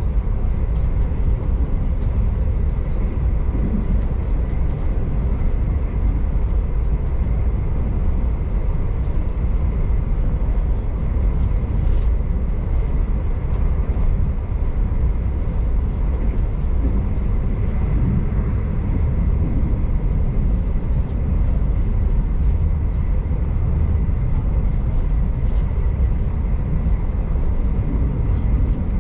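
Moving V/Line passenger train heard from inside the carriage: a steady low rumble of running gear on the rails, with a faint steady whine above it and a single light tick about twelve seconds in.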